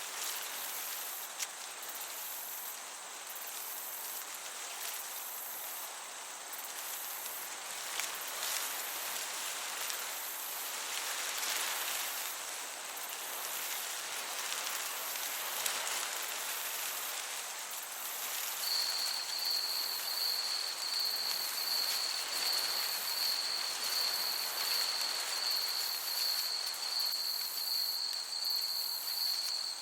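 Meadow ambience: a steady hiss of breeze with insects chirping in a fast, even pulse. About two-thirds of the way in, a cricket's steady high trill joins.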